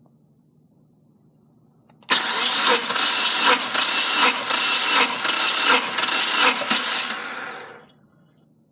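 Subaru FA20DIT 2.0 L turbocharged flat-four engine turned over for about six seconds, a loud harsh whirring with a regular pulse under it that starts suddenly and winds down at the end.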